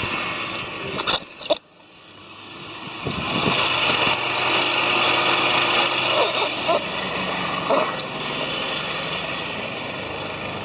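Toyota Crown Hybrid's 2GR-FSE 3.5-litre V6 starting: two sharp clicks, a brief hush, then the engine builds up about two seconds in. It runs at a loud fast idle for several seconds and eases to a lower, steady idle about eight seconds in.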